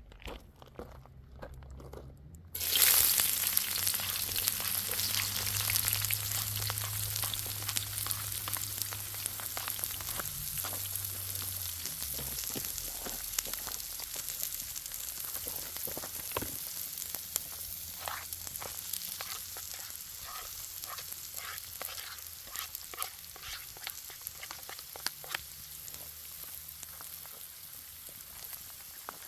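Food goes into a hot oiled pan and starts sizzling suddenly about two and a half seconds in, loud at first and easing off gradually, with crackling pops throughout.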